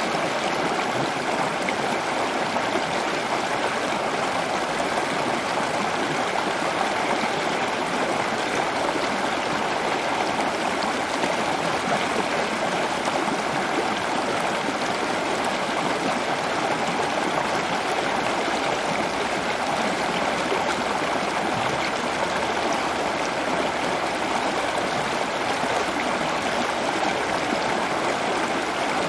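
Steady running water, an even rushing and trickling like a stream, with no change in level.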